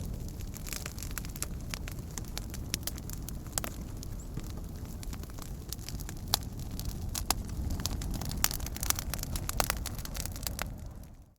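Wood campfire burning, with a steady low rumble of flames and frequent sharp crackles and pops from the burning wood. The sound fades out at the very end.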